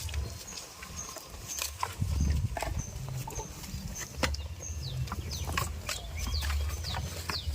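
Farm goats at close range: scattered sharp clicks and knocks, with short high chirps and a low rumble underneath.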